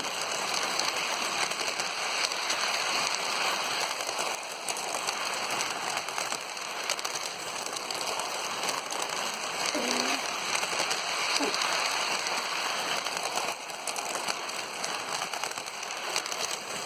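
Lionel toy train running along its track, a steady dense rattling crackle of wheels and motor.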